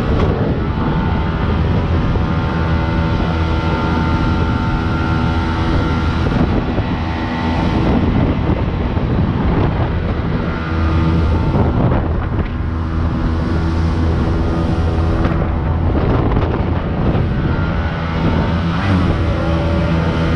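Jet boat engine running steadily under way, with wind buffeting the microphone.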